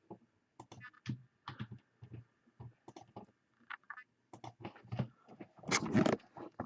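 Computer keyboard and mouse clicking in irregular short taps, with a louder noisy burst near the end.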